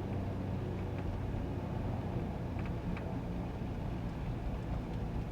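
Steady engine hum and road noise of a GAZ Sobol 2752 van driving, heard from inside the cabin, with a few faint light ticks.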